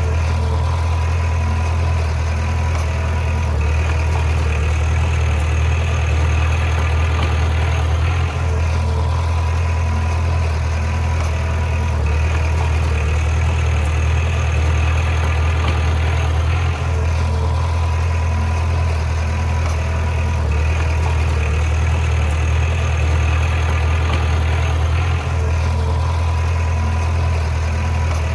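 Bulldozer's heavy diesel engine running steadily, with a slight change in its sound recurring about every eight seconds.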